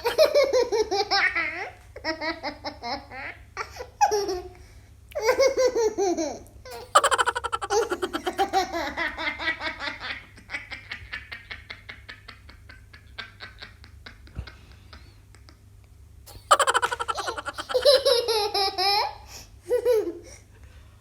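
A young child laughing hard in repeated bouts, softer for a few seconds in the middle and then breaking out loudly again.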